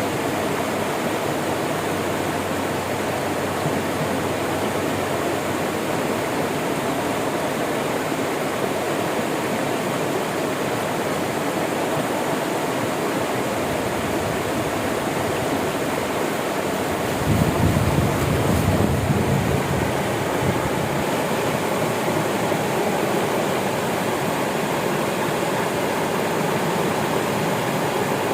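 River water flowing steadily, an even rushing noise. About two-thirds of the way through, a louder deep rumble rises for a few seconds, then falls back.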